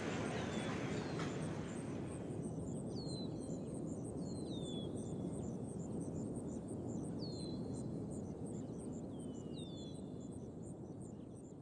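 Countryside ambience: a steady low rumble under a high, even ticking about four times a second, with a bird giving short downward-sliding chirps every second or two. A fuller sound thins away over the first two seconds, and everything fades out near the end.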